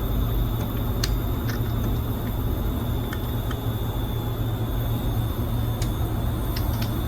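Steady low machinery hum with a faint high whine over it, and a few light clicks.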